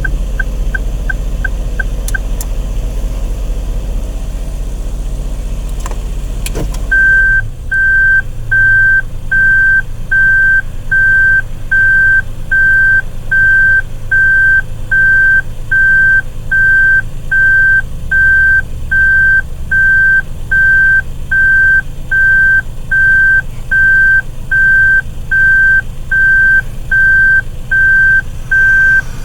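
Subaru Stella kei car's 660 cc three-cylinder engine idling, with a quick run of short electronic beeps for the first two seconds. A clunk comes at about six and a half seconds, and then the car's warning buzzer beeps steadily, about four beeps every three seconds, in the manner of a reverse-gear alarm.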